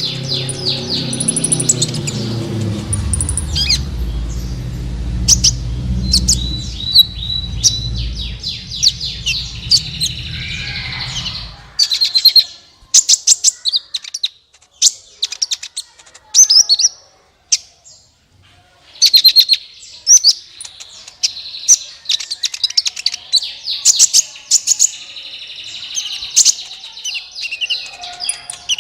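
A sunbird singing a fast, high series of chirps and trills, with brief pauses in the middle. A low rumble runs under the song and stops about twelve seconds in.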